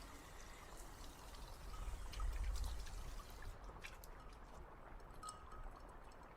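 Liquid being poured, a steady trickle, with a few light clicks about three and a half to four seconds in.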